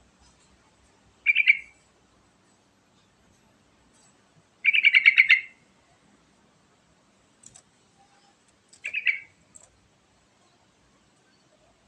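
Yellow-vented bulbul (trucukan) singing: three short phrases, each a quick run of notes, about three to four seconds apart. The middle phrase is the longest.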